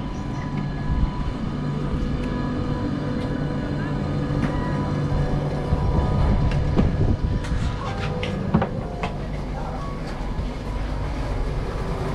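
Passenger train running, heard from inside a carriage: a steady low rumble with a faint steady hum, and scattered knocks and clatter from the car.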